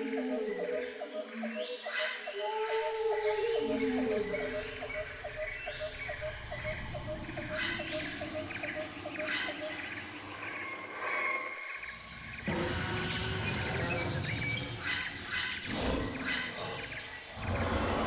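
Jungle ambience of mixed animal and bird calls, with a steady pulsing call and some gliding calls over a background of chirps. About twelve seconds in it changes abruptly to a denser, noisier chorus.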